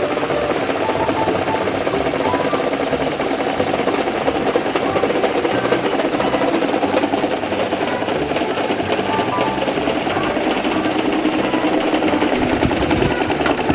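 Electric table fan running with a fast, continuous mechanical rattle as it wobbles.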